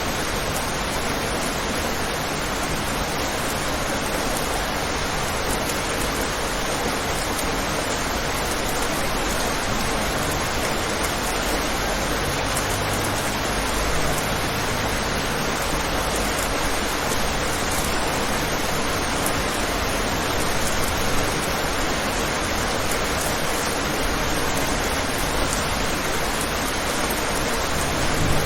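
Steady rain falling on a window: an even hiss with no single drops standing out.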